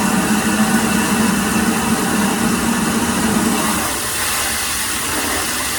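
An engine running steadily, with a low hum that drops away about four seconds in while the running noise goes on.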